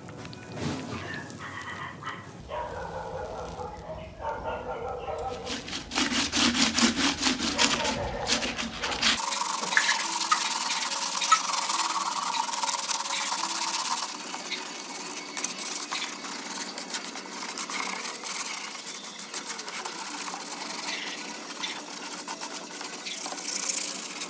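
Workshop repair noises in several short edited pieces: rubbing and scraping strokes in a quick even rhythm. These are followed by a long stretch of steady hissing with a faint whine, like a small power tool working.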